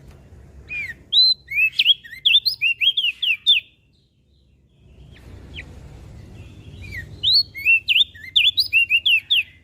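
Crested white-eye (opior jambul) singing two quick phrases of sharp, downslurred whistled notes, each about three seconds long, with a gap between them. A faint low rumble runs underneath.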